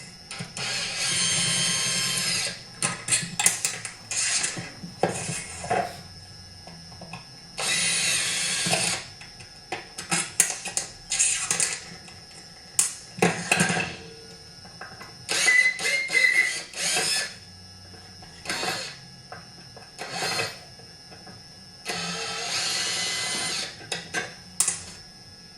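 A power driver running in three bursts of a second or two each, backing out the handlebar bolts of a chainsaw. Between the bursts come short clicks and knocks of tools and metal parts being handled.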